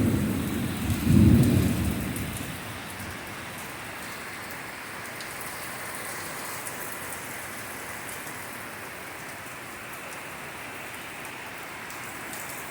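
Close thunder rumbling loudly for the first two seconds, strongest about a second in, then dying away into the steady hiss of torrential rain.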